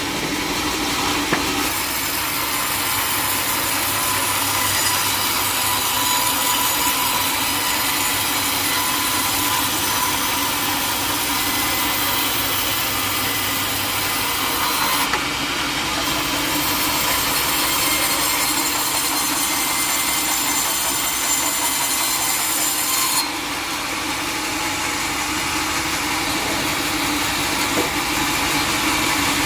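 A sawmill saw cutting through teak wood: a steady, loud run of blade-on-wood noise with a few held tones, its hiss changing character a few times as the cut goes on.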